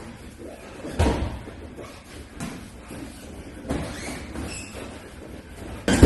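Thuds of gloved punches and kicks landing in kickboxing sparring: a sharp hit about a second in, a few lighter ones, and the loudest just before the end.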